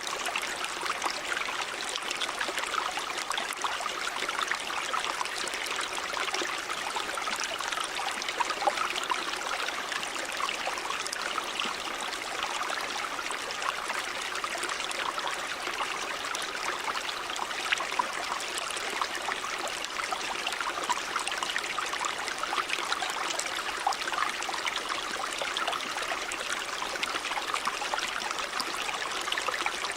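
River water running over stones in a steady babbling rush, with small splashes and trickles flickering through it.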